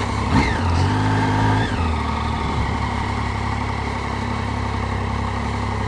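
Triumph Street Triple's three-cylinder engine idling at a standstill, its note shifting briefly about a second in and then settling steady.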